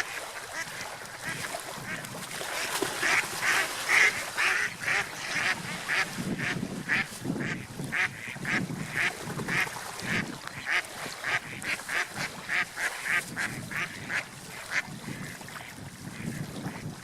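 Ducks quacking over and over, short calls following one another about two or three times a second, with deeper calls joining in partway through.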